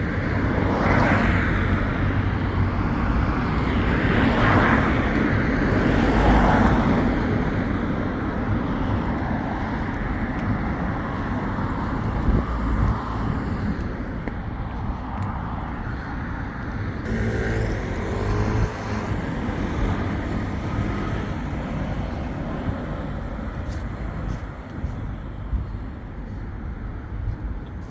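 Road traffic passing along a street: several vehicles swell past one after another in the first seven seconds, then a steadier traffic hum that slowly quietens, with a brief pitched engine note about eighteen seconds in.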